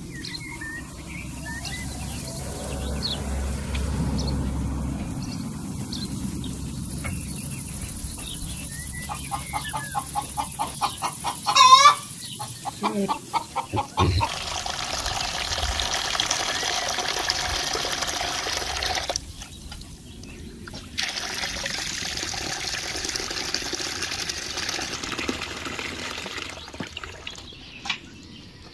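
Water splashing as hands wash something in a basin, then a chicken clucking in a quick run of calls that ends in one loud squawk. A steady hiss follows.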